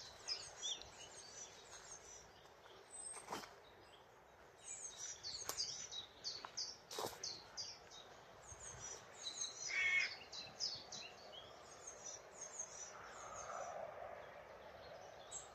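Woodland birdsong: several small songbirds giving quick, high chirps and short song phrases, with a few sharp clicks in between.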